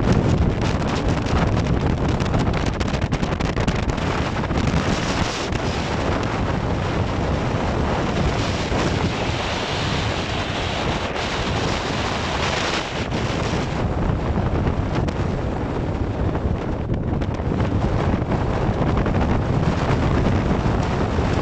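Strong gale-force east wind buffeting the microphone in a steady roar, with waves washing against a jetty underneath.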